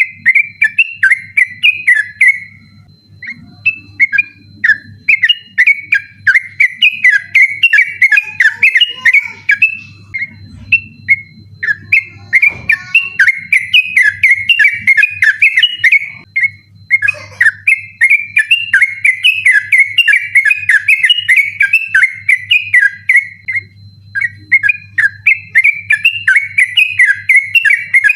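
Yellow-vented bulbul (trucukan) singing an insistent rolling 'ropel' song: long runs of quick, slurred whistled notes, each run several seconds long with brief pauses between.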